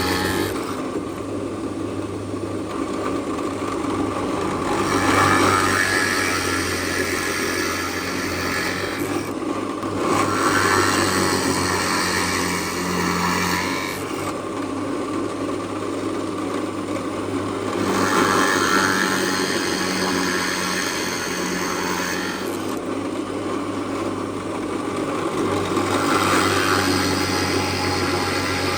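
Woodworking power tool running steadily, with a louder, grittier cutting sound swelling about four times as it works through the wood.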